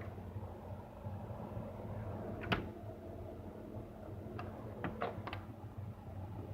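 A few sharp clicks and knocks: one loud click about two and a half seconds in, then a quick run of three or four lighter clicks near the end, over a low steady hum.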